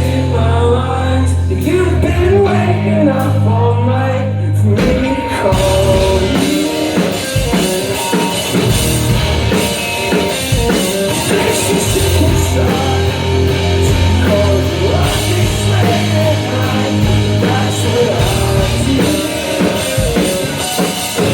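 Live rock band playing, with sung vocals over sustained bass and guitar. About five seconds in, the drums and cymbals come in and the full band plays on.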